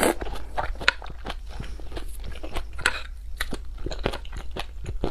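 Close-miked mouth sounds of a person chewing spicy raw seafood: short, sharp mouth clicks and smacks, several a second.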